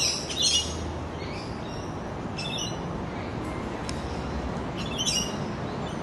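Birds chirping in three short, high bursts, at the start, about halfway through and near the end, over a steady faint outdoor hiss.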